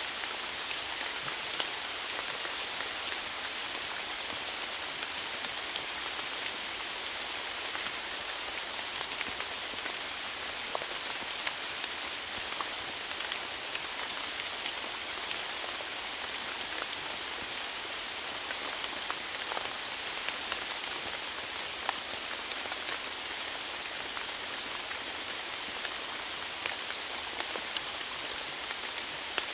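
Steady rainfall: an even hiss of rain with the scattered sharper taps of individual drops landing close by.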